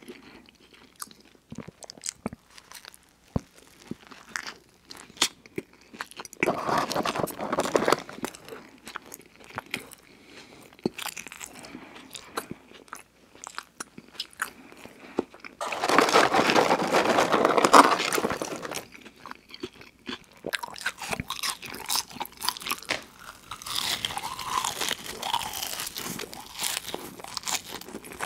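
Close-miked chewing and mouth sounds of a person eating a Big Mac and then French fries: soft wet clicks and smacks, broken by several louder spells of chewing. The longest and loudest spell comes a little past the middle.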